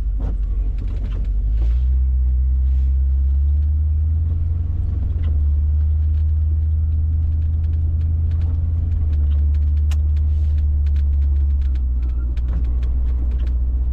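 Car engine and road rumble heard from inside the cabin while cruising: a loud, steady low drone. The pitch rises about two seconds in and drops back down near the end.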